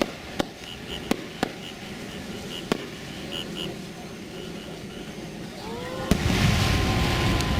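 Aerial fireworks going off: several sharp bangs in the first three seconds, then a rising whistle that holds as a steady tone and a loud bang about six seconds in, followed by a sustained rush of noise.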